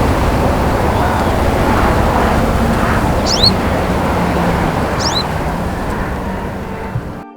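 Two short, high, sweeping chirps from a small bird, likely a sunbird, about two seconds apart, over a loud, steady rushing background noise. The noise cuts off suddenly near the end.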